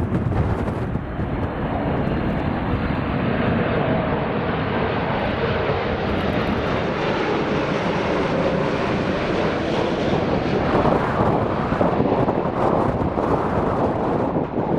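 Jet airliner engines, a continuous broad rumble that grows louder and brighter, peaking a little before the end as the aircraft passes close.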